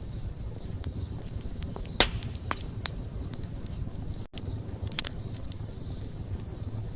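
Wood fire burning: a low steady rumble of flames with scattered sharp crackles and pops of burning wood. The loudest pop comes about two seconds in, and the sound cuts out for an instant just past the middle.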